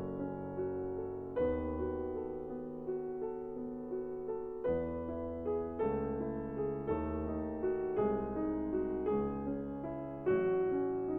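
Background piano music: a slow, gentle piece with a new chord struck about once a second over held bass notes.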